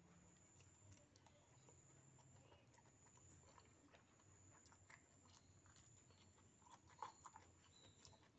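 Faint close-up chewing and slurping of noodles, with small clicks of a fork against the bowl; the sharpest click comes about seven seconds in.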